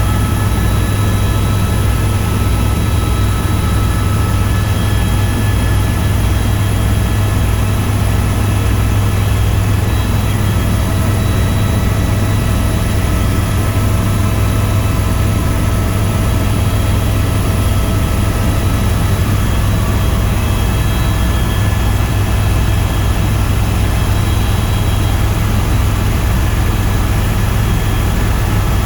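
Helicopter in steady flight: a loud, unchanging drone of rotor and turbine, with a few steady high whines over it.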